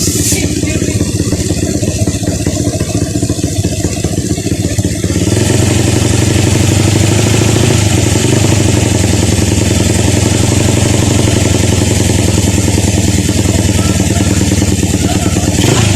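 Upgraded Honda XRM 125 motorcycle engine, fitted with a 4-valve head, 72 mm cylinder and 32 mm carburettor, running. About five seconds in it revs up and holds at the higher, louder speed.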